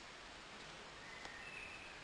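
Faint steady outdoor hiss, with a faint thin whistle starting about halfway through and a single small click.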